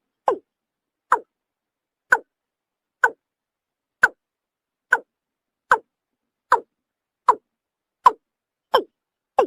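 Watercock (kora) calling: a steady series of short notes, each falling in pitch, about one a second and quickening slightly toward the end.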